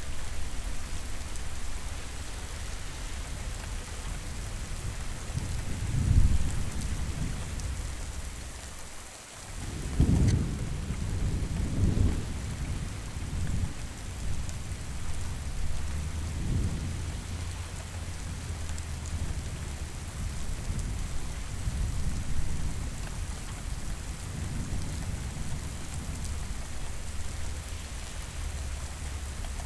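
Steady rain with rolling thunder: low rumbles swell about six seconds in, and again more strongly from about ten seconds in, rolling on for several seconds before easing back to the rain.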